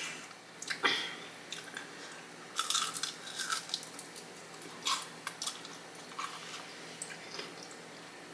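Close-miked eating sounds: a person chewing Flamin' Hot Cheeto-crusted fried chicken, with irregular crunches and soft wet mouth noises.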